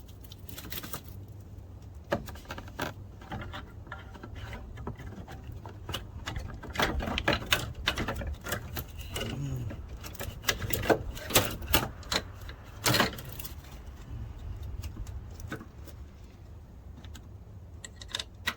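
Scattered clicks, knocks and light clatter of metal parts as a replacement brake hydraulic module is worked into its mounting bracket among the brake lines. The handling is busiest in the middle, over a steady low hum.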